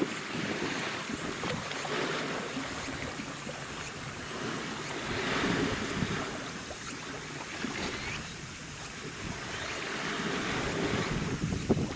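Sea waves washing, a noisy surge that swells and eases several times.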